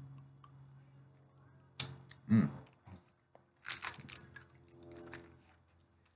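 People chewing Japanese soda candy: scattered wet mouth clicks and chewing noises, the thickest cluster a little before the four-second mark, with a short hummed 'mm' a little over two seconds in.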